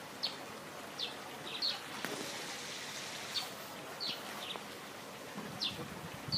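A small bird chirping repeatedly: short, high notes that slide downward, now and then in quick pairs, a second or so apart. Underneath is a steady hiss that swells for a couple of seconds in the middle.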